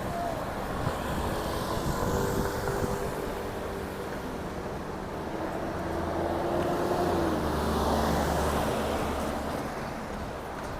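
Road traffic passing close by: car engines and tyre noise, growing louder as vehicles go past, with a couple of swells.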